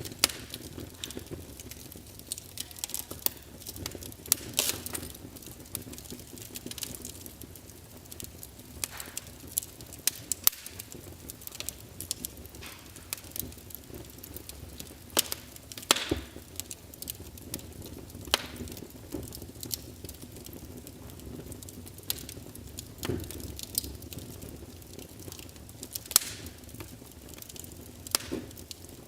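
Fireplace crackling: irregular pops and snaps over a low, steady hiss.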